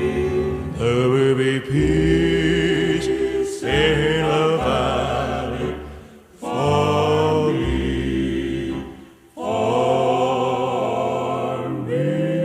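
Gospel music: voices singing long, held harmonized notes in slow phrases, with two short breaks between phrases.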